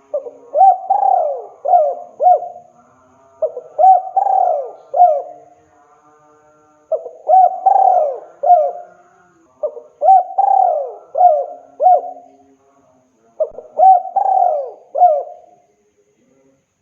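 Spotted dove cooing: five phrases of three to four notes each, one phrase about every three seconds. This is the male's call to a female.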